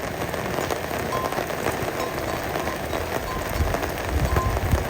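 Steady rain falling, a dense patter of drops, with low rumbling coming in during the last second or so.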